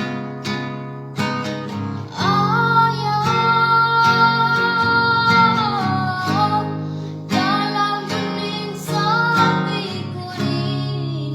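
A song: acoustic guitar plucked, with a singing voice coming in about two seconds in and holding long notes over it.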